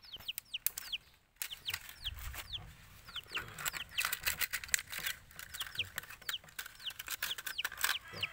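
Small birds peeping: many short, high notes that fall in pitch, about two or three a second, over the crackle of clear plastic being handled.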